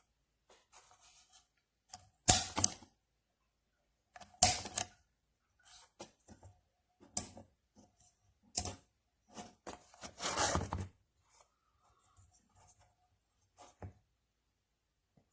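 Objects being handled close by: a string of sharp clicks and short scraping knocks, with a longer rustling scrape about ten seconds in.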